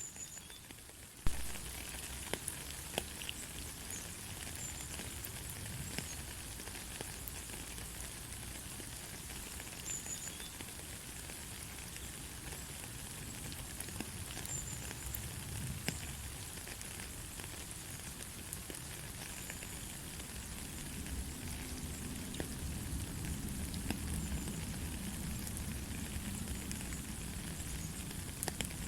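Light rain falling steadily, a soft even hiss with scattered drops ticking close by. About a second in it becomes abruptly louder.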